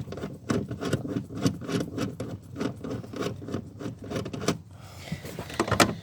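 An 8 mm long-reach socket being turned by hand on a rear light's mounting nut: a quick run of small metallic clicks and scrapes, thinning out near the end with a couple of sharper clicks.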